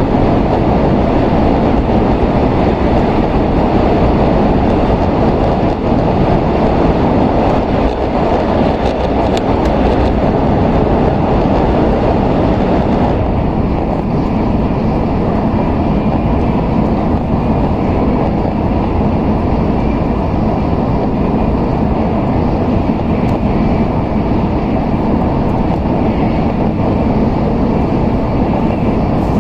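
Cabin noise of an N700S Shinkansen running at speed: a steady rumble and rush, its higher hiss dropping away a little about halfway through.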